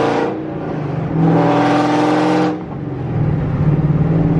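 Car engine revving hard for about a second and a half with its pitch climbing, then letting off and settling into a steady lower drone.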